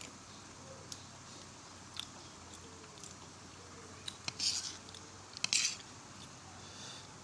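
A person eating rice porridge with bean sprouts close to the microphone: a few light clicks, then two louder, short chewing sounds about a second apart near the middle.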